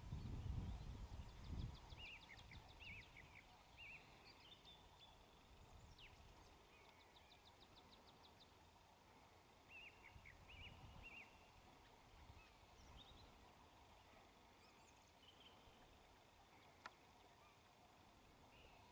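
Faint birdsong: small birds chirping and giving quick trills on and off. A low rumble fills the first two seconds, and a single sharp click comes near the end.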